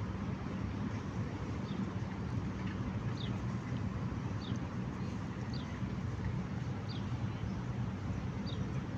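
A bird repeating a short, high, downward-slurred chirp about once a second over a steady low rumble.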